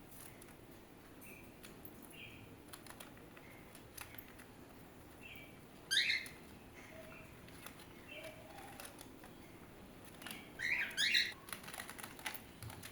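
Pet birds chirping softly with short calls, and three louder squawky calls about six seconds in and again near the end. Faint light clicks and taps run through it.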